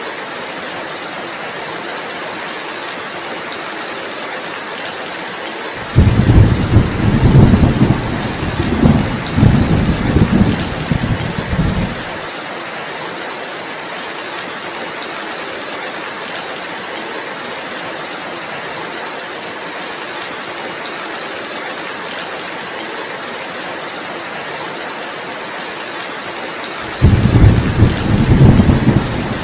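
Steady heavy rain, with a loud rolling rumble of thunder that starts suddenly about six seconds in and dies away about six seconds later, and a second rumble starting near the end.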